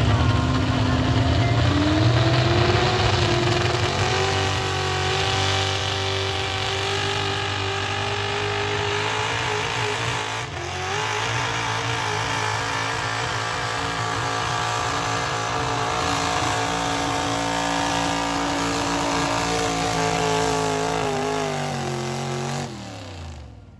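Pulling tractor's engine running at full throttle through a pull: its pitch climbs over the first few seconds, holds high and steady, then falls quickly near the end as the engine is throttled back.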